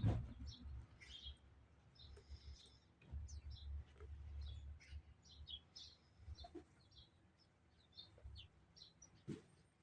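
Small birds chirping: many short, high chirps repeating at an irregular pace, over an intermittent low rumble, with a knock at the start.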